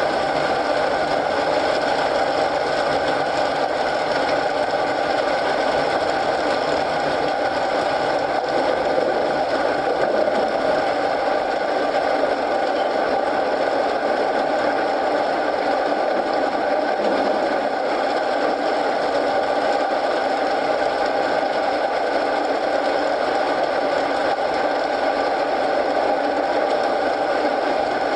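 Steady rain with a crackling wood fire, an even, unbroken patter and crackle.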